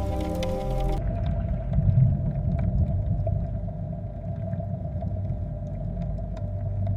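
Music with sustained pad-like tones cuts off about a second in, giving way to a steady low rumble with a faint constant hum and a few light clicks.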